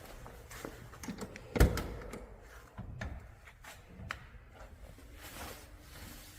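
A single loud thump about a second and a half in, with lighter knocks and clicks scattered around it.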